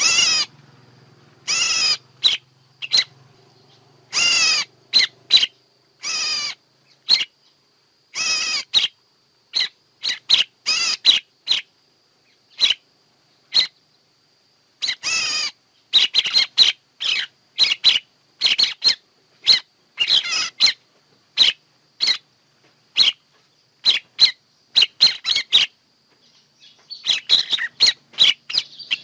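Bird calls, played as a lure for trapping: short, repeated high call notes with silent gaps between them. The notes are longer and more spaced at first, then come in quick runs of several per second from about halfway. A faint steady high whine runs underneath.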